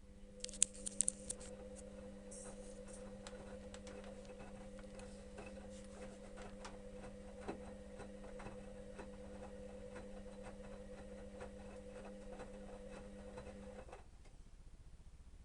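Electrolux EWS 1045 washing machine's drum motor humming steadily as it turns the drum during the wash, with light ticking throughout. A few sharp clicks as it starts, and the motor stops about 14 seconds in.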